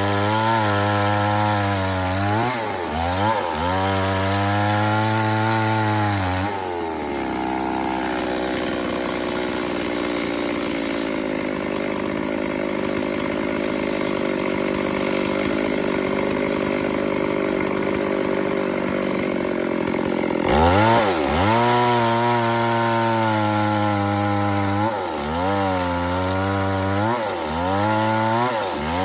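Chainsaw cutting wood, its engine pitch repeatedly dipping and recovering as the chain bites. For a long middle stretch it runs steadier at a lower pitch, then the dipping and recovering resumes.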